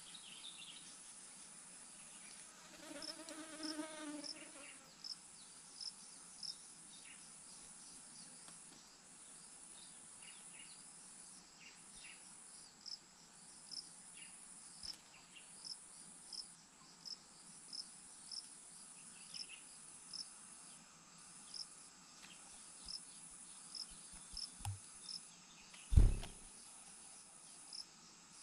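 Outdoor insect chorus: a steady high-pitched buzz of insects, with a short chirp repeating about once a second. A brief lower call sounds early on, and a single loud thump comes near the end.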